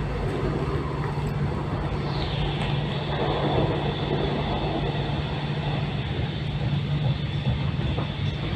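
An X'Trapolis 100 electric train running along the line, a steady rumble with a constant low hum. A thin, high steady whine sets in about two seconds in.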